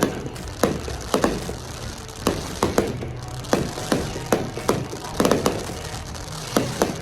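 Fireworks bursting overhead: an irregular string of about a dozen sharp bangs, each echoing briefly, with a quick cluster of bangs a little past the middle.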